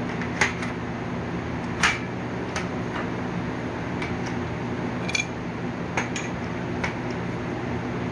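Light, sharp metallic clinks and taps, about nine at irregular intervals, the loudest about two seconds in, from the steel bed frame being handled and worked while a bent leg is bent back straight. A steady low hum runs underneath.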